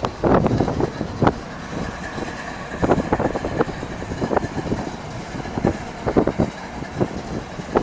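A Plasser American rail maintenance machine passing on the track: its engine runs with a steady rumble under irregular knocks and clanks from the machine rolling over the rails.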